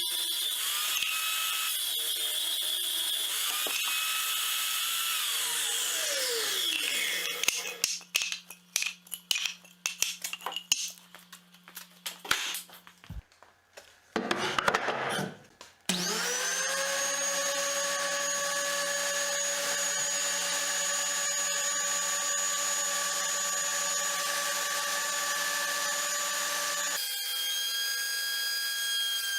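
An electric power tool's motor runs with a steady whine and winds down, followed by a stretch of irregular knocks and clatter. About halfway through, a power tool spins up with a rising whine and runs steadily, its pitch changing near the end.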